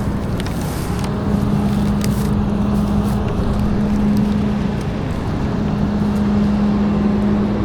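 Garbage truck engine running steadily, with a constant low hum over its rumble.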